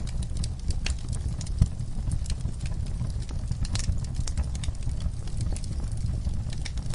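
Wood fire crackling: a steady run of irregular sharp pops and snaps over a constant low rumble.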